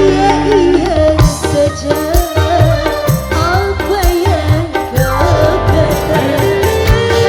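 Live dangdut band playing an instrumental passage: hand drums keep a steady beat under a gliding melodic lead line and bass.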